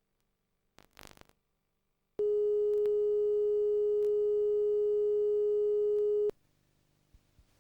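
A steady electronic test tone of one pitch on the VHS tape's audio track, starting abruptly about two seconds in, holding for about four seconds and cutting off suddenly. A brief crackle comes about a second in, and faint tape hiss follows the tone.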